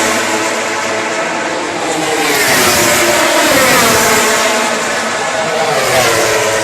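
Racing motorcycles passing at speed on a circuit. The engine note falls as they go by, rises as more bikes come through, then falls again.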